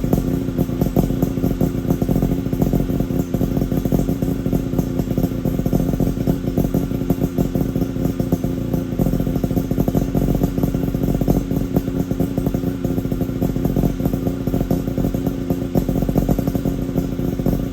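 Suzuki Jimny SJ30's two-stroke three-cylinder engine idling steadily, heard through an Apio Matsumoto-style expansion chamber and muffler. The exhaust note holds one even pitch with no revving.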